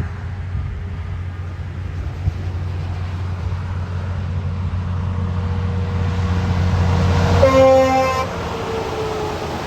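A truck approaches and passes with its engine and tyre rumble building, and gives one short horn toot as it goes by, about seven and a half seconds in.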